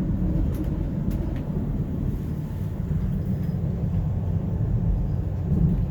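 Steady low rumble of a high-speed train running at speed, heard from inside a small passenger compartment.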